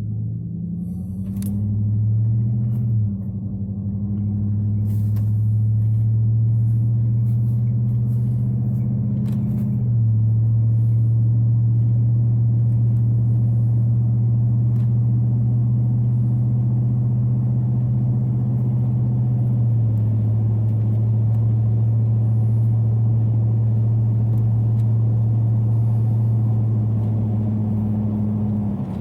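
A motor vehicle's engine running steadily with a low rumble, its note shifting in steps a few times as it drives.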